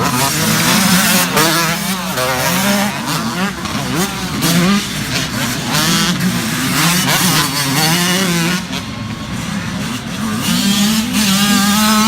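Several small youth dirt bike engines revving, their pitch rising and falling again and again as the riders work the throttle and shift.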